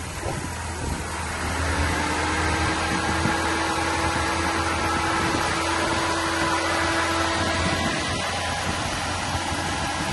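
Toyota four-cam 32-valve V8 idling steadily, with an even whirring over the engine note; the sound grows a little louder about a second and a half in, as a steady hum joins.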